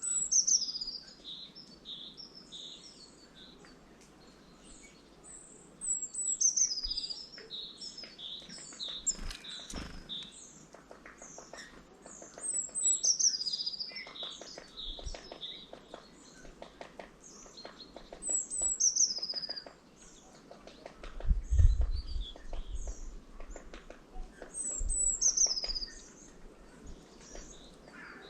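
Small songbirds at a feeder singing and chirping: a high, quickly falling song phrase comes back about every six seconds among shorter chirps. Fast light ticks, typical of pecking, run through the middle, and a low thump, the loudest moment, comes about two-thirds of the way in.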